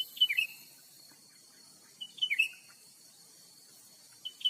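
Cucak ranting bird calling: three short bursts of sharp, quick chirping notes, one about every two seconds.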